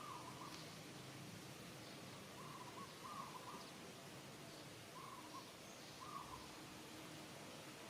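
Faint short animal calls, mostly in quick pairs, repeated every second or two over a light background hiss.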